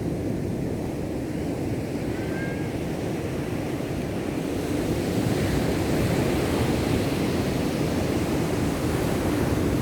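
Ocean surf breaking and washing on a beach: a steady rushing wash that swells a little louder about halfway through.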